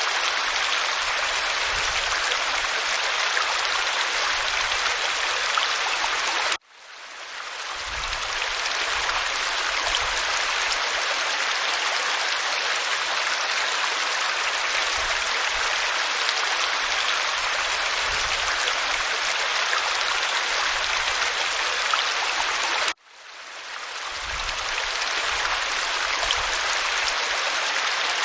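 Waterfall pouring onto rock: a steady, even rush of water. Twice the rush cuts off suddenly and swells back in over a second or two, the seams of a looped recording.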